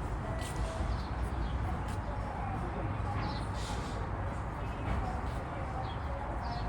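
Outdoor ambience: a steady low rumble with faint, indistinct voices and short, high chirps of small birds scattered throughout.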